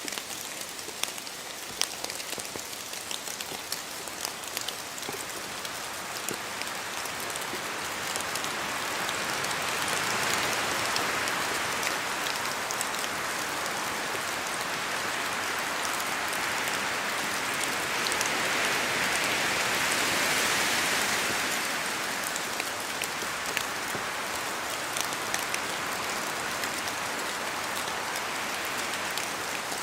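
Steady rain in a spruce forest, with many separate drops ticking sharply as they fall from the trees. Wind gusts through the trees swell the sound twice, about a third and about two-thirds of the way in.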